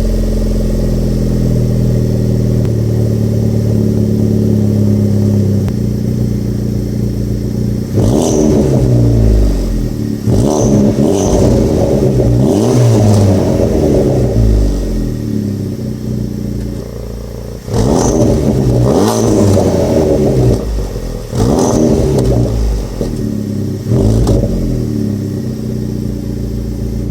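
Honda Civic Type R FL5's 2.0-litre turbocharged four-cylinder running through a Milltek aftermarket exhaust. It idles steadily for about eight seconds, then is revved in a series of quick blips that rise and fall in pitch. It settles back to idle, and a second run of blips starts about eighteen seconds in.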